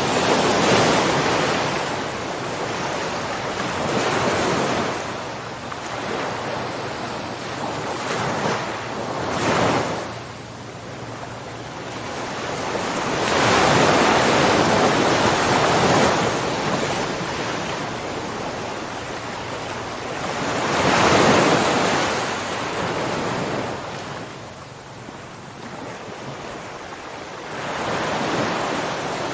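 Ocean surf: waves breaking and washing in, rising and falling in slow surges every few seconds, with a steady hiss of water between them.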